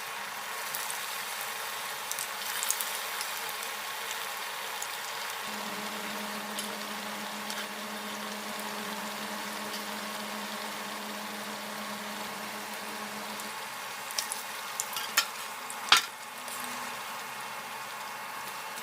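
Kakara pitha sweet cakes deep-frying in hot oil, a steady sizzle. A few sharp knocks come near the end.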